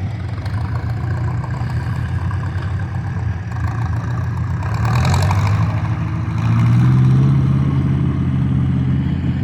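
Farm tractor engine running under load during a tractor pull. It gets louder about halfway through and is loudest a little after that, then eases slightly.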